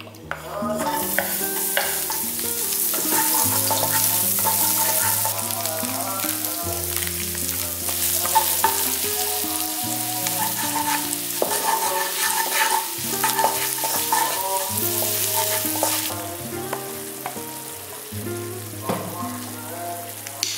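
Food sizzling as it fries in a pan, with the clicks and scrapes of a utensil stirring it, over background music. The sizzle starts about half a second in and drops away about four seconds before the end.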